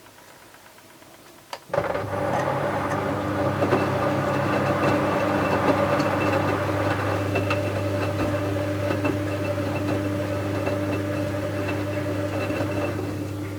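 Bauknecht WA 7778 W washing machine: a sharp click about a second and a half in, then a loud, steady hum starts and keeps running evenly with a faint ticking on top.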